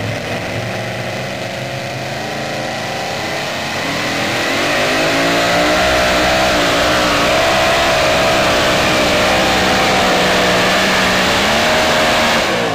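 Supercharged engine of a super modified two-wheel-drive pulling truck running at full throttle during a pull. It revs up and gets louder about four seconds in and holds there with a wavering pitch. It falls away near the end as the throttle comes off.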